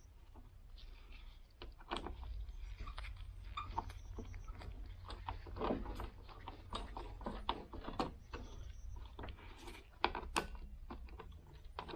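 Irregular clicks, knocks and light scraping of snowblower parts being handled and pressed into place by hand, over a low steady hum.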